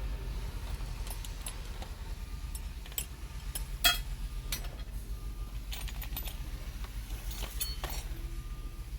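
Metal hand tools clinking and clattering as someone rummages through a toolbox for a wrench: a scatter of sharp clinks, with one louder clank about four seconds in.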